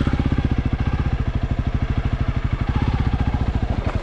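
Honda CRF300L's single-cylinder four-stroke engine idling steadily with a rapid, even beat.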